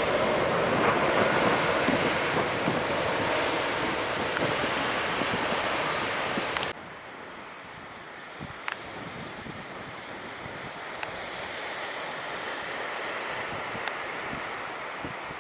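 Jet airliner engine noise, slowly fading, stops abruptly about seven seconds in. Quieter waves on the beach and wind on the microphone follow.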